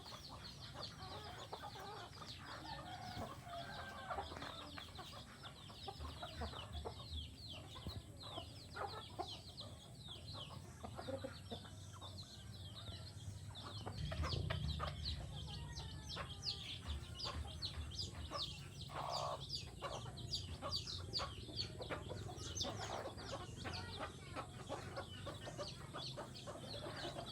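A brood of newly hatched chicks peeping continuously, many short high cheeps overlapping, with some lower chicken clucking among them.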